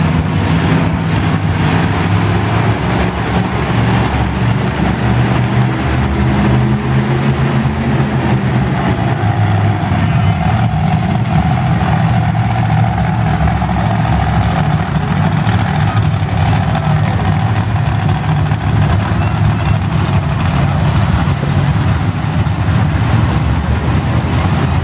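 Monster truck engines running hard during a two-truck race, a loud, continuous engine din whose pitch shifts up and down as the trucks rev.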